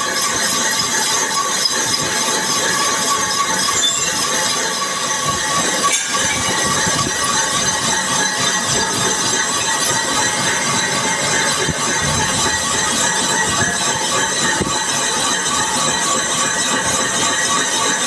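Metal lathe turning a steel workpiece, the cutting tool giving a steady, high metallic screech.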